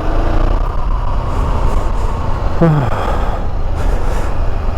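Honda CB500X parallel-twin motorcycle running at a steady road speed, heard under heavy wind rush on the microphone.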